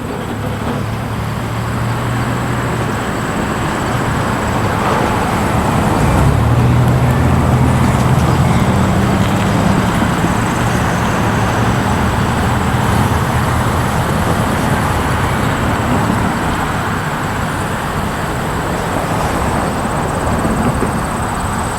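Diesel locomotive of a Maumee & Western freight train running by: a steady low engine drone over a broad rumble, growing louder about six seconds in.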